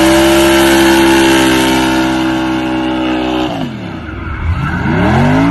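Car engine held at high, steady revs, then the revs fall sharply about three and a half seconds in and climb back up near the end.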